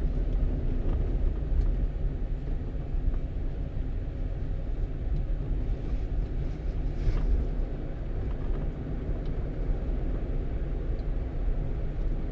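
A one-ton truck driving along a road: steady low engine and tyre rumble.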